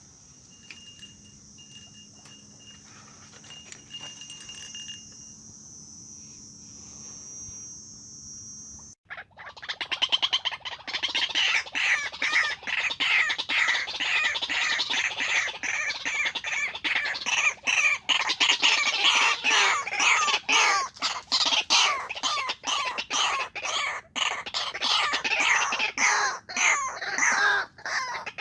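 White-breasted waterhen (ruak) calling: a dense, fast run of harsh repeated notes that starts abruptly about nine seconds in and goes on loudly. Before it there is only a steady high-pitched buzz.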